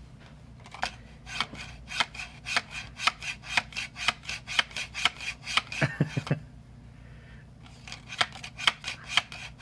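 Rapid, even run of crisp snipping clicks, about four a second, with a short pause after about six seconds before they start again.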